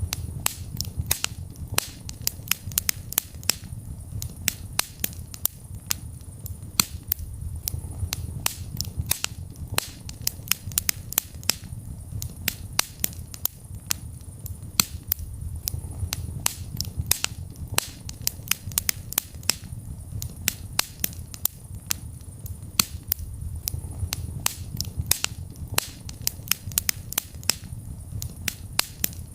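Wood fire burning in a fireplace: many irregular sharp crackles and pops, several a second, over a steady low rumble of the flames.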